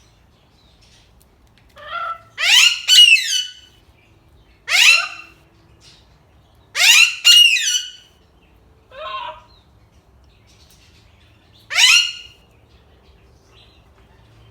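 Alexandrine parakeet screaming: loud, harsh calls that fall in pitch, singly or in pairs, about six loud ones with a couple of softer calls between. She is calling out at wild birds passing outside.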